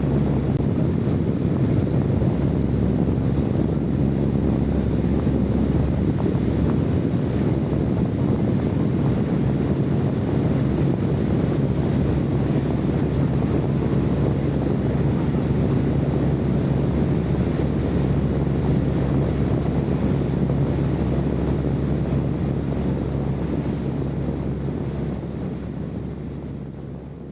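Steady low rumbling noise recorded live as white noise for sleep, with a faint steady hum under it; it fades out near the end.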